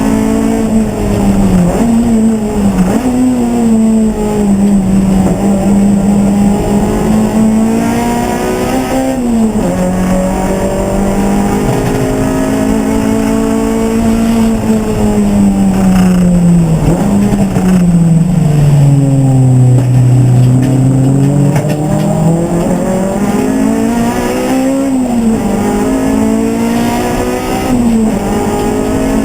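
A race car's engine running continuously, its pitch swinging up and down as it speeds up and slows, and dropping lowest about two-thirds of the way through before climbing again.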